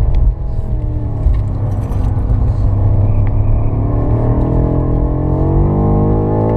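BMW M5 F90's twin-turbo V8 heard from inside the cabin under load in third gear. The engine note sags a little early, then climbs steadily from about four seconds in as the car accelerates.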